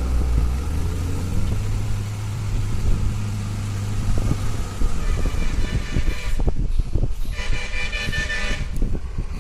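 Heavy lorry engine labouring with a low steady drone that steps up in pitch about a second in, then two horn blasts of over a second each near the end.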